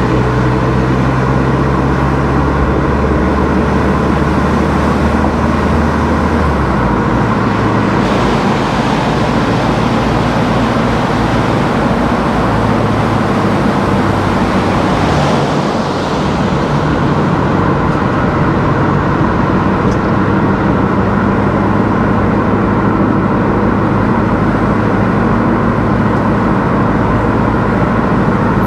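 A car being driven on a road: steady engine hum and tyre-and-road noise, the hum dropping in pitch about six seconds in. A brief rushing swell comes about halfway through.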